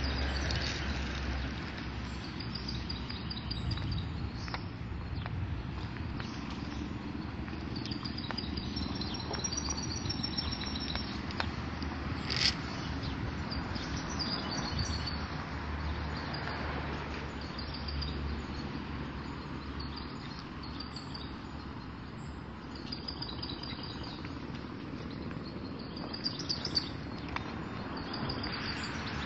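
Small birds chirping on and off in short high calls over a low rumble, with a single sharp click about halfway through.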